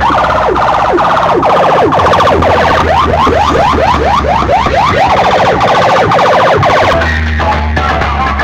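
Siren-style sound effect played loud through a DJ road-show sound system's loudspeakers: a rapid series of falling wails that quicken in the middle. It stops about seven seconds in as bass-heavy music comes back.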